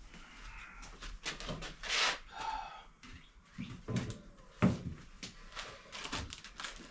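Scattered knocks, clicks and rattles of parts and tools being handled, the loudest about two seconds in and again near five seconds.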